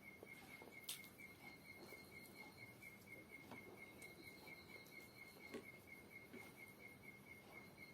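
Faint, steady, rapid trill of a cricket, with a few soft clicks, the sharpest about a second in.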